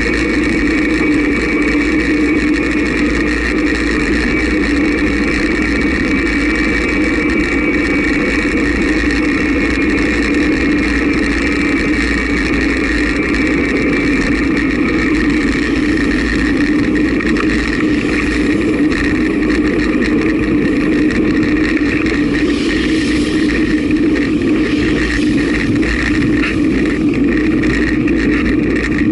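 Motorcycle engine running at a steady cruise, heard from onboard, a constant drone mixed with wind rush.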